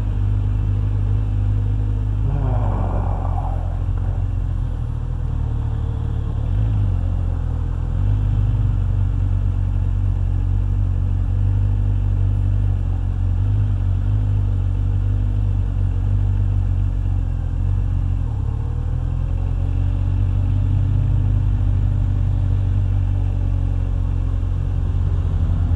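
Motorcycle engine running at a steady cruise, with road and wind noise. There is a brief louder sound about three seconds in, and the engine pitch shifts slightly a little past halfway.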